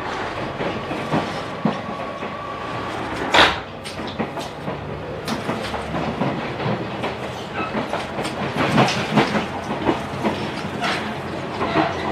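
JR Shikoku 2000 series diesel railcar running, heard from its vestibule: wheels clacking over rail joints and points in a string of sharp knocks, the loudest about three and a half seconds in. The diesel engine is faint here because the vestibule is some way from the engine, and a faint steady whine runs under the first three seconds.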